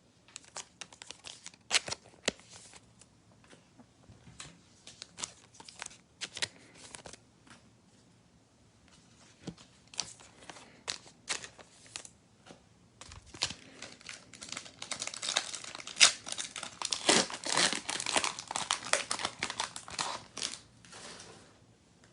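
Trading-card pack wrapper being crinkled and torn open by hand: scattered crackles at first, then a dense stretch of crinkling in the last third.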